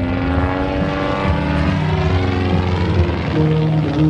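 A Long-EZ's 160-horsepower Lycoming IO-320 four-cylinder engine driving its pusher propeller in flight. The steady propeller-plane drone shifts slowly in pitch as the aircraft moves through its display.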